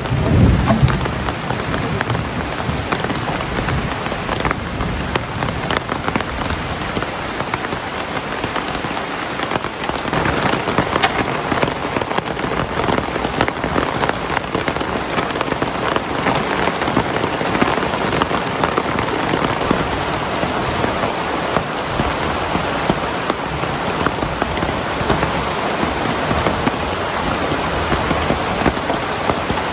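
Heavy rain falling steadily in a dense patter, with the last of a low thunder rumble dying away in the first second.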